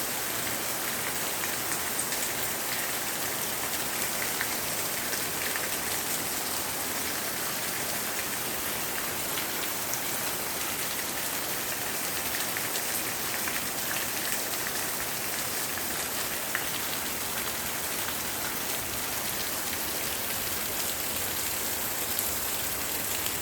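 Heavy rain falling steadily, an even hiss of rain with scattered drops ticking through it.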